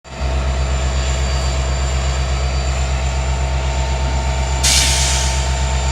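Union Pacific diesel locomotive engine running with a steady low rumble, and a short burst of hissing air about four and a half seconds in.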